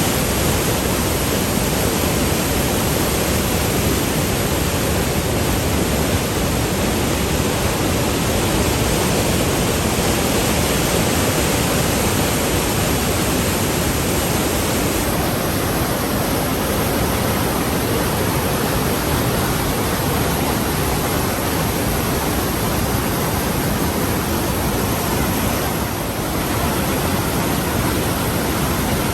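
Rhine Falls waterfall: a steady, loud rush of heavy falling water.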